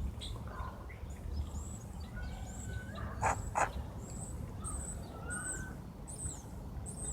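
Small birds chirping: a series of short, high chirps throughout, with two brief sharper calls a little past the middle, over a low outdoor rumble.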